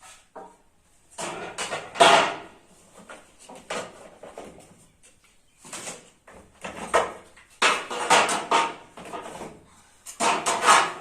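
Dishes, containers and other items being taken out of a fridge and set down: irregular bursts of knocking and clattering of hard objects.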